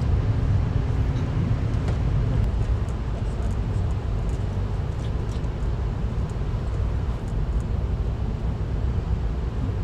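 Steady low rumble of a moving VIA Rail passenger train running on the rails, with a few faint ticks.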